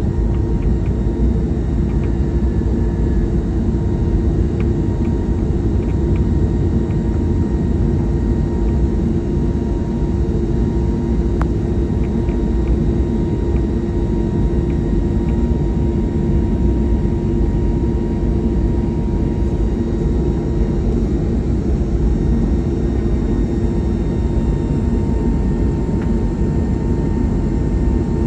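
Steady cabin noise aboard an Airbus A321neo airliner: a constant low rumble of its Pratt & Whitney geared turbofan engines and airflow, with a fixed hum over it and no change in pitch or level.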